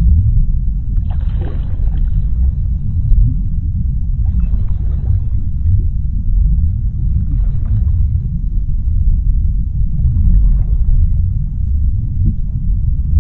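Underwater ocean ambience: a deep, steady rumble with a soft hissing wash that swells about every three seconds.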